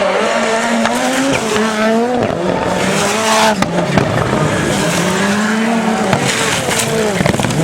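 Rallycross Supercar engines at race speed, the pitch climbing and dropping repeatedly as the cars accelerate, shift and lift for corners, with a few sharp pops around the middle.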